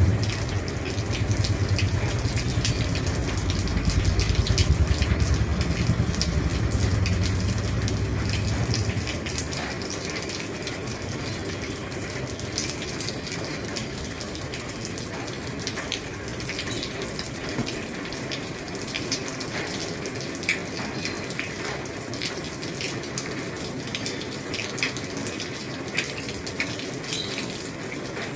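Heavy rain falling on a roof: a steady hiss dotted with many separate drop ticks. A low rumble underneath dies away about nine seconds in.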